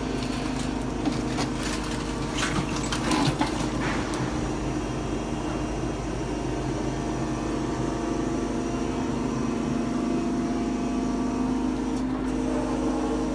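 Brokk demolition robot running with a steady machine hum. A cluster of sharp knocks and clatter comes about one to four seconds in.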